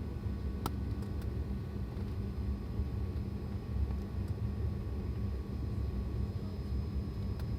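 Steady low rumble and hum of an airliner cabin on the ground, heard from inside the cabin, with a single faint click about a second in.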